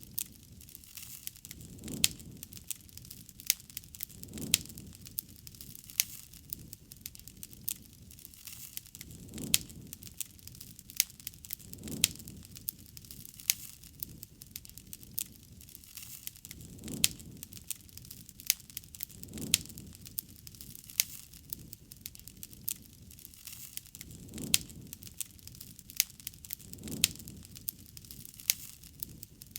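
Wood fire crackling: frequent sharp pops and snaps over a faint hiss, with soft low swells of flame every few seconds.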